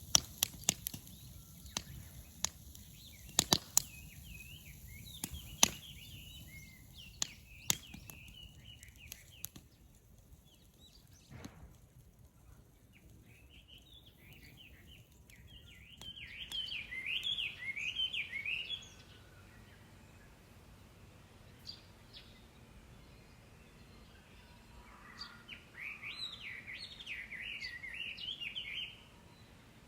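Chinese hwamei singing: two loud runs of rapid, varied whistled phrases, one about two-thirds of the way in and another near the end, with quieter song before them. Scattered sharp cracks sound through the first third.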